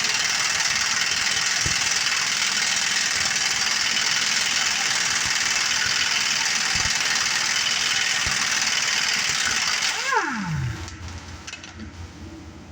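A power tool runs steadily at full speed for about ten seconds, then is switched off and winds down with a falling whine.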